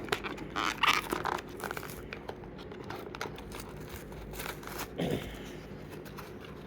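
Packaging of a diecast toy train being torn open and crinkled by hand: a busy run of crackles and snaps in the first couple of seconds, then scattered ones, with another burst about five seconds in.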